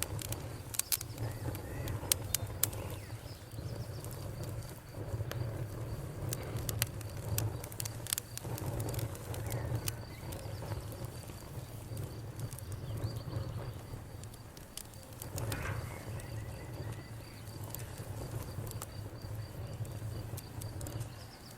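Wood fire crackling: irregular sharp pops and snaps over a low steady rumble of burning. A faint, high pulsing trill runs through the second half.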